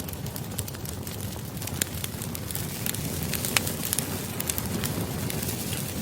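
Campfire crackling: a steady low rush of burning wood with frequent sharp pops and snaps.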